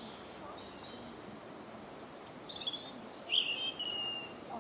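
Small birds chirping a few times in the second half, the clearest a short falling call that trails into a held note, over a steady outdoor background hiss.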